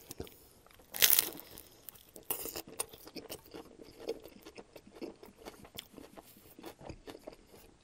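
A bite into a toasted Subway sub sandwich, with one loud crunch of the crust about a second in, then close-up chewing with small wet clicks and smacks.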